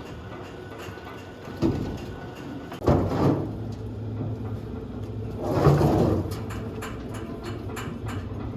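A machine's motor running steadily at a low hum, with three louder grinding bursts: a short one a little under two seconds in, one about three seconds in and one about six seconds in.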